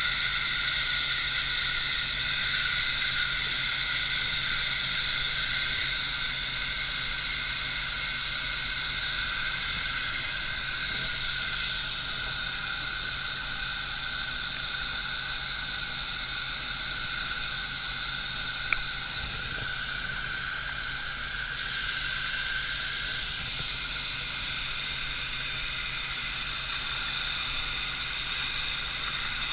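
Steady hiss of water escaping under pressure, over a low steady engine drone, with one sharp click about two-thirds of the way through.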